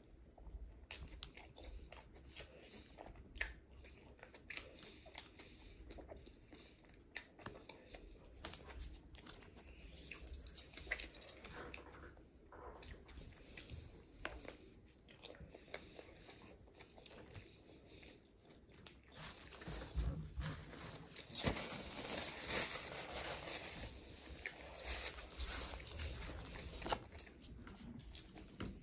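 Close-up mouth sounds of biting and chewing a Big Mac burger: soft, wet chewing with many small clicks and crunches. It gets louder for several seconds past the middle.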